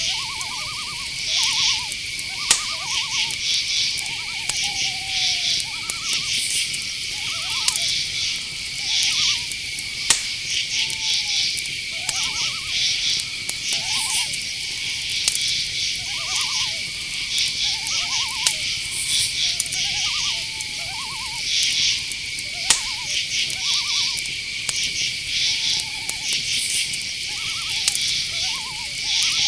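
A night-time chorus of crickets and other insects: dense pulsed chirping over a steady high-pitched insect tone. Short, quavering calls repeat every second or so through it.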